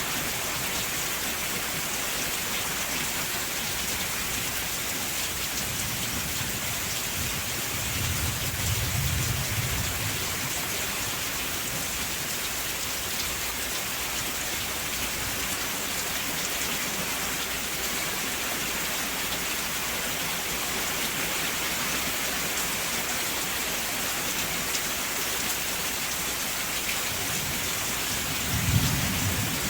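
Steady rain falling hard, an even hiss throughout, with low rumbles of thunder, one about eight seconds in and another near the end.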